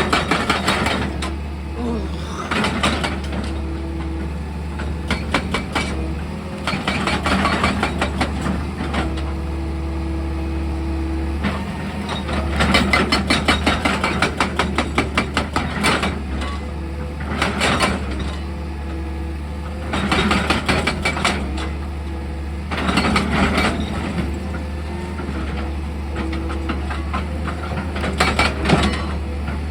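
Excavator's diesel engine running steadily, with repeated bursts of clattering and crunching every few seconds as it works in sand and rock.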